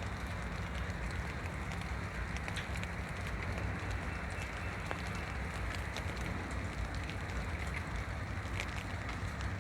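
Steady rain with scattered small ticks of drops, over a constant low rumble.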